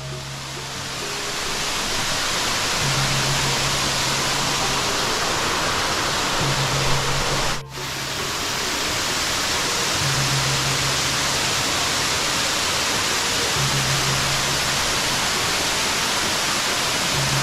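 Loud, steady rush of falling water from a waterfall, with background music of low notes held for a couple of seconds at a time. The water sound briefly drops out about halfway through.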